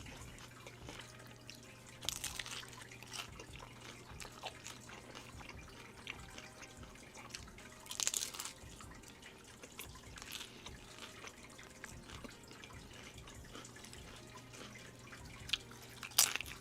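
Kitchen water sounds: liquid dripping and splashing, with small clicks and clinks and short splashy bursts at a few points, over a steady low hum.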